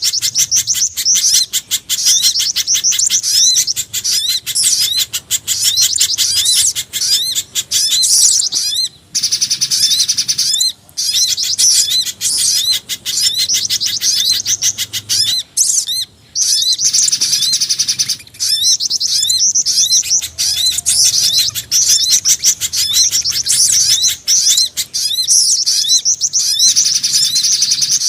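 Bird-lure recording mixing mountain spiderhunter, sogon sunbird and jingjing batu calls: a dense stream of rapid, high-pitched chirps with a few short breaks.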